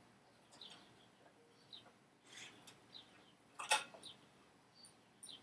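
Quiet, scattered small clicks and knocks of mower parts being handled, the loudest a sharp clink about three and a half seconds in, with faint high chirps in between.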